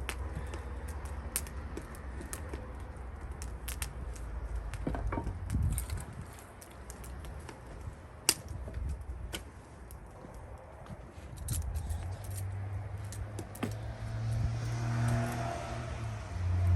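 Wood fire crackling with scattered pops over a low rumble, with one sharp knock about eight seconds in. A low droning hum swells in near the end.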